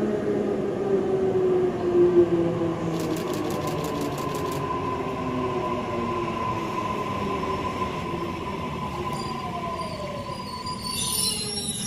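Electric suburban train pulling into an underground platform and braking, its motor whine falling in pitch under a steady high squeal. A short burst of hiss comes near the end as it stops.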